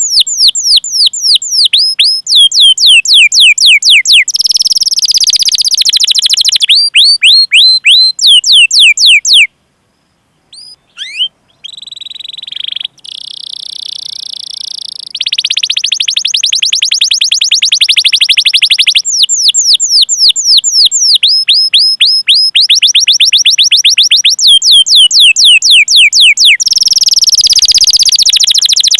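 Canary singing: long strings of quick, downward-sweeping 'cuit cuit' chirps alternating with dense rolling trills, with a short pause about ten seconds in.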